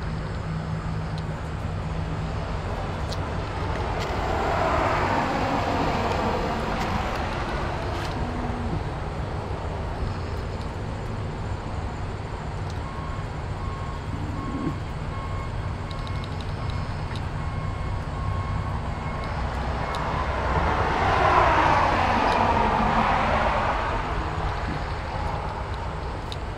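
Two road vehicles passing by, one about five seconds in and another about twenty-one seconds in, each swelling and then fading, over a steady low rumble.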